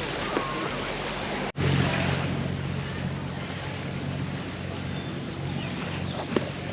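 Steady low motor hum, with a brief dropout about a second and a half in, after which it comes back louder.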